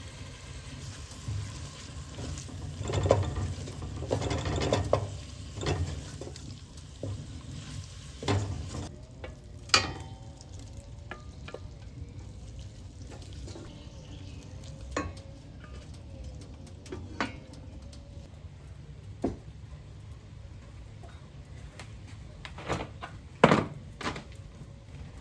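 Scattered knocks and clatters of objects being handled, over a steady low hum. There is a cluster of them a few seconds in, then single knocks every few seconds, and the loudest comes near the end.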